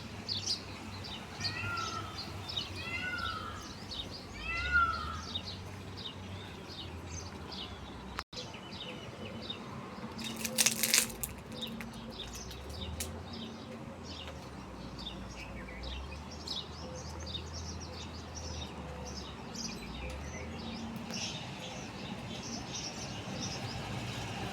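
Many small birds chirping and calling throughout. A bird gives the same short call three times, about a second and a half apart, in the first five seconds. A brief loud rustling burst comes a little before the middle.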